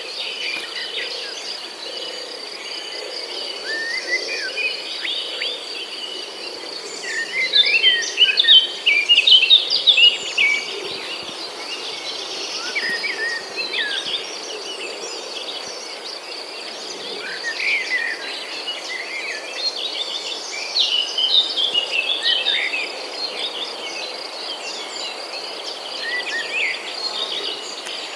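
Insects trilling in a steady, high, rapidly pulsing chorus, with many birds calling and chirping over it in short, varied phrases.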